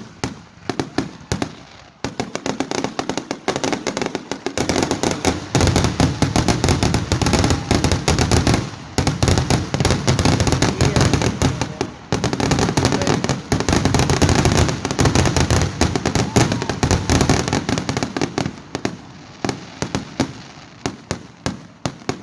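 Fireworks going off as a rapid, dense string of pops and bangs, with scattered single pops at the start and thinning out again near the end.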